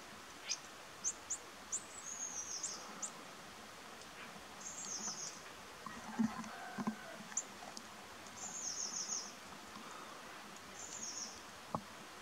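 A small bird singing short, high-pitched trilled phrases, about four of them a couple of seconds apart, with a few single chirps between, over a steady background hiss. A few faint low knocks come about halfway through.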